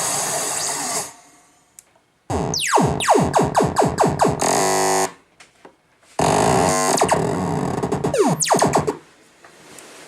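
KORG Kaossilator synthesizer playing electronic sound-effect tones: a noisy hiss that cuts off about a second in, then two bursts of quick, repeated falling zaps separated by short silences.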